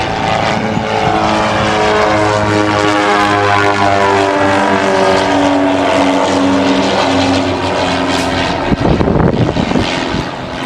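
Propeller airplane flying past, its engine note falling steadily in pitch as it goes by. Near the end comes a short, loud rushing noise.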